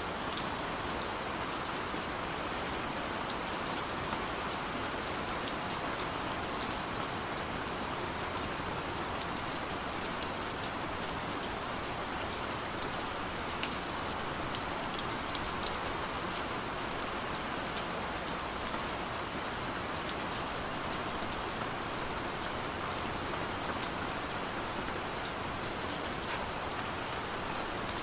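Steady gentle rain: an even hiss of rainfall with many small drop ticks pattering on a surface.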